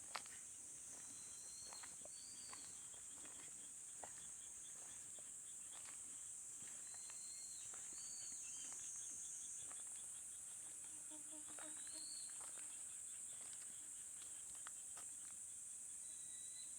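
Nighttime insect chorus over summer rice fields: a steady high shrill of crickets, with short chirping calls and fast trills over it and a brief low frog call about two thirds of the way through. Faint footstep ticks are scattered through it.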